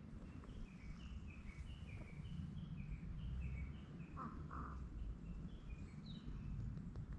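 A songbird singing a quick run of short, falling chirps, about three a second for the first few seconds, then two brief notes a little past the middle, over a steady low rumble.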